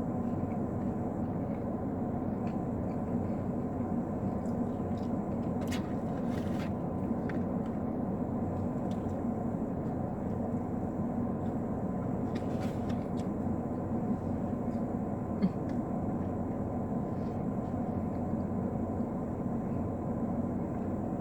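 Steady low hum inside a parked car, with a few faint clicks and one sharp tick about fifteen seconds in.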